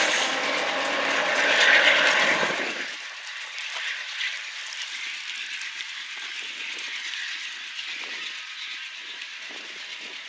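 Train led by a BNSF GE AC4400CW locomotive approaching on jointed track. It is loud for about the first three seconds, then drops off sharply to a quieter steady rumble with scattered clicks from the wheels over the rails.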